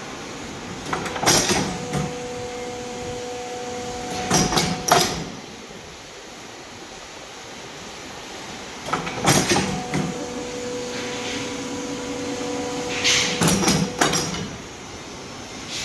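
CNC pipe bending machine running two bend cycles: each begins with a burst of metal clanks, holds a steady hum while the bend is made, and ends with another burst of clanks.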